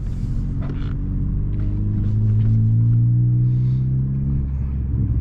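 Turbocharged Honda Civic Si engine heard from inside the car, its note rising as the car accelerates, then holding steady. The note breaks briefly right at the end.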